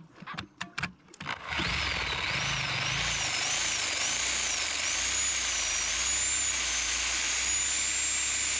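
Harbor Freight reciprocating saw: a few sharp clicks as the blade is seated, then the saw starts about a second and a half in and runs steadily. Its high motor whine wavers up and down in pitch as the speed changes.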